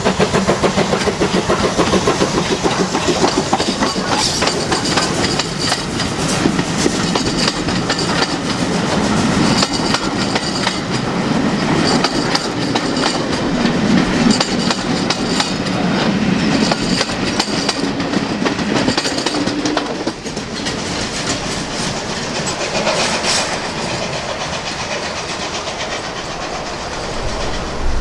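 Steam-hauled train passing on a heritage line, its wheels clicking rhythmically over the rail joints, the sound easing off about 20 seconds in.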